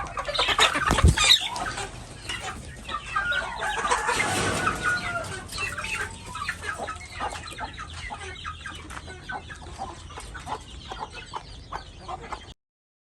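Chickens clucking, with a longer call about four seconds in and a loud knock about a second in; the sound cuts off suddenly near the end.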